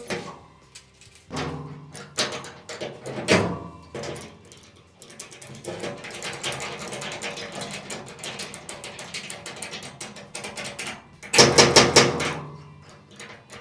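Sheet-metal dent work on a truck's steel box side: irregular metallic clicks and knocks, with the panel ringing after the louder blows and a dense clattering stretch in the middle.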